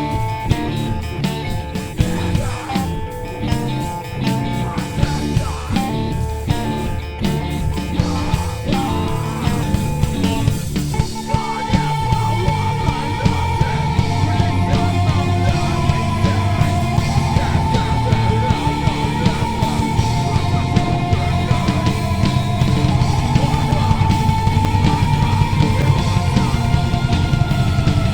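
Live rock band playing with electric guitars and drums. About eleven seconds in, the music moves into a louder, fuller section with a held melody line over a steady beat.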